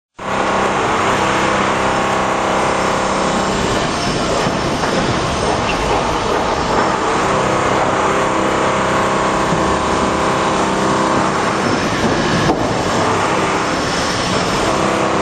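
A loud, steady metallic drone made of several layered tones over a rough noise, starting abruptly. It is one of the unexplained 'strange sounds' recordings, which the uploader suggests comes from construction cranes.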